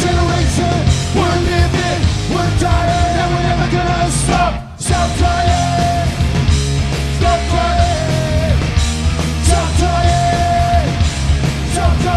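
Punk rock band playing live: fast distorted guitars, bass and drums, with shouted voices over them. The band stops dead for a split second about four and a half seconds in, then crashes back in.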